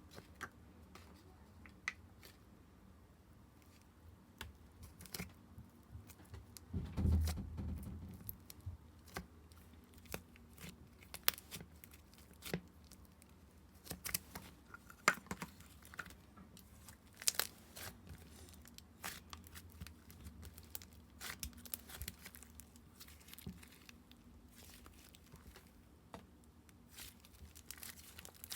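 Hands handling plastic packaging and slime-making materials: scattered crinkling and tearing with small clicks and taps, and one louder low thump about seven seconds in.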